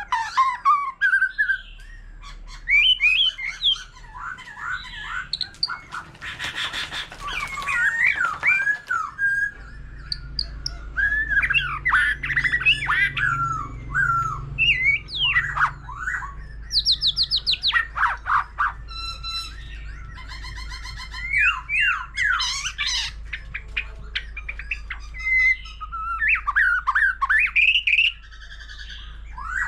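White-rumped shama singing a long, varied song: whistled phrases that slide up and down, broken by rapid trills and harsh scratchy notes.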